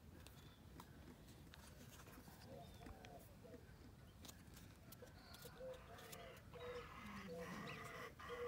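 Faint, near-silent background with short repeated bird calls, which come more often and a little louder in the second half.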